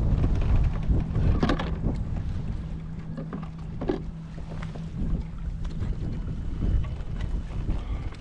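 Wind rumbling on the microphone, with a steady low hum that stops near the end and a couple of short knocks about one and a half and four seconds in.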